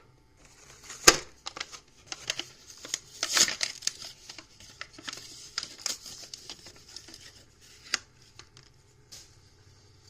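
Toy car packaging being torn open by hand: crinkling and tearing with many sharp clicks and snaps, the loudest about a second in and again about three seconds in.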